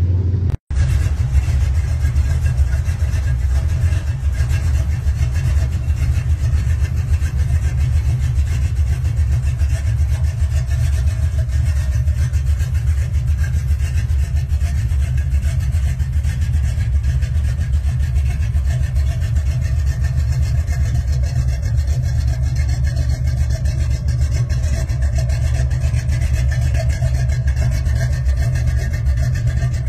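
Classic Dodge Coronet muscle car engine idling with a deep, pulsing exhaust rumble, steady throughout after a brief break near the start.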